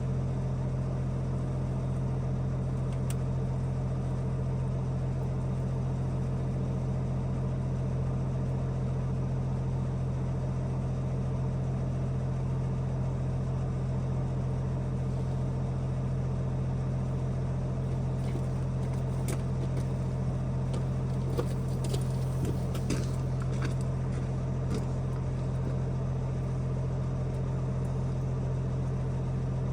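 A steady low motor hum with an even pitch, with a run of scattered sharp crackles about two-thirds of the way through.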